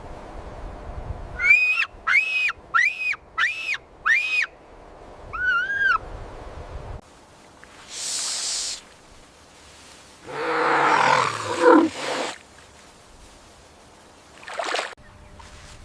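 A series of animal calls: five short, high, arched calls in quick succession and a lower one after them, then a hiss and a longer harsh, growling call.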